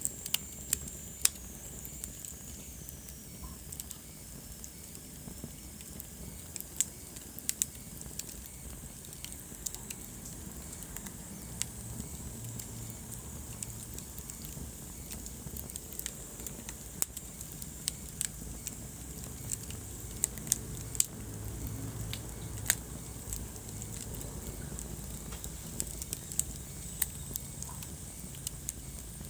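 Wood fire in a fireplace burning with a low steady rumble and frequent sharp crackles and pops, irregular and some much louder than others. A faint high whistle slides down in pitch in the first few seconds.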